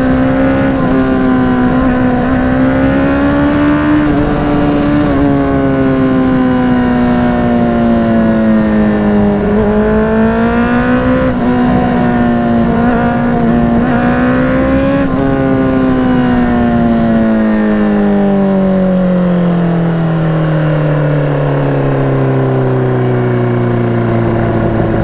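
Honda CBR600RR inline-four engine running through a Yoshimura exhaust while riding. The engine pitch rises and dips gently with the throttle for about fifteen seconds. It then falls steadily as the revs drop, settling at a much lower note near the end.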